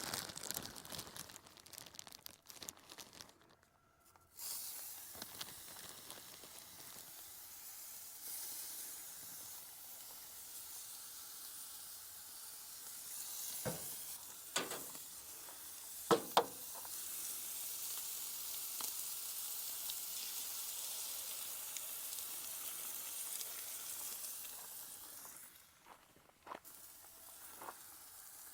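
Food frying in oil on a hot gas barbecue hotplate: a steady sizzle that starts suddenly about four seconds in, as the food goes onto the plate, and fades near the end. A few sharp knocks about halfway through, the loudest of them the loudest sounds here.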